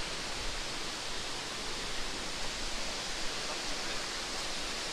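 A waterfall running: a steady, even rush of falling water.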